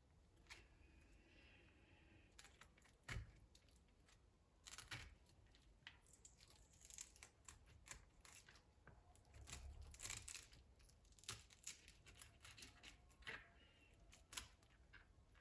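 Faint handling noises: scattered taps, clicks and short rustles, busiest in the middle of the stretch.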